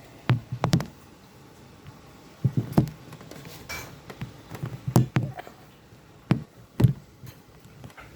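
A series of irregular knocks and clicks, seven or eight strokes at uneven spacing.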